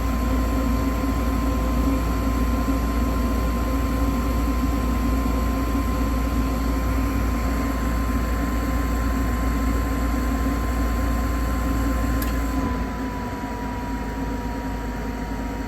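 Gas furnace running: a steady low rumble and hum with a thin, even whine. About three-quarters of the way through, the rumble eases and the whine drops slightly in pitch.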